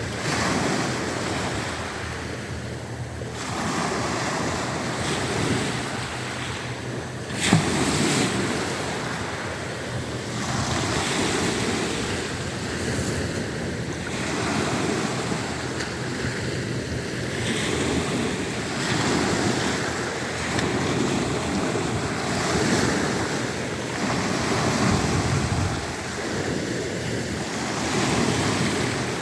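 Black Sea surf: waves breaking and washing on the shore, swelling and ebbing every few seconds, with one sudden louder crash about seven seconds in.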